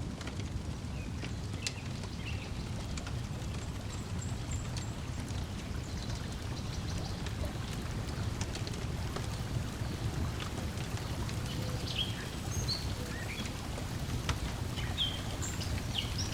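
Lakeside nature ambience: a steady low wash of water and breeze, with scattered crackles from a wood fire and short, high bird chirps here and there.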